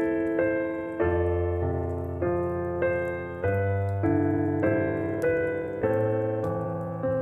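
Solo piano playing a slow, gentle worship-hymn style melody over sustained bass notes, each note struck and left to ring and fade.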